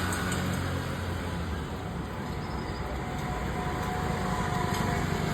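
Steady motor vehicle noise: a low engine hum under a broad, even rush.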